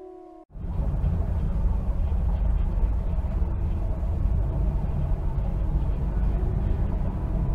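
The end of a wolf's howl, held on one pitch and cut off about half a second in. Then a steady, low rumbling wash of underwater water noise.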